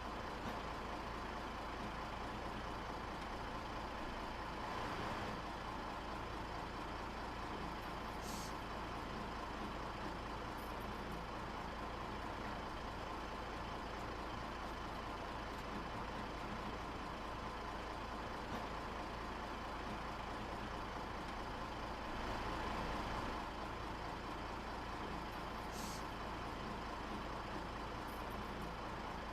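Steady drone of heavy engines or machinery, with two short hisses, about eight seconds in and near the end.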